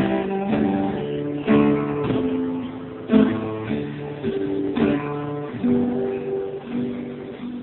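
Acoustic guitar playing the closing chords of a song, a few strummed chords left to ring, growing quieter toward the end.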